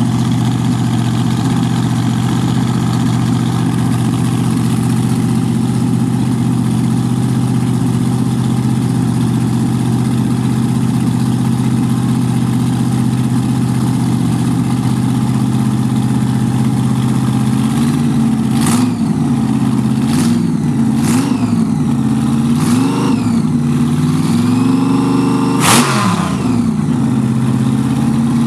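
Car engine idling steadily, then revved in several short blips from about two-thirds of the way in, the pitch rising and falling each time, with a few sharp cracks among the blips.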